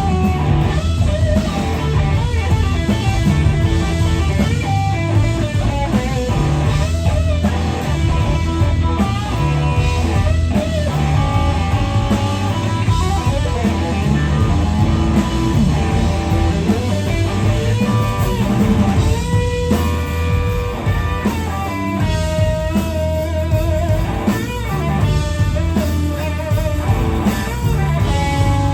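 Live blues-rock band playing: a lead electric guitar plays bending, wavering notes over bass and drums, with no vocals.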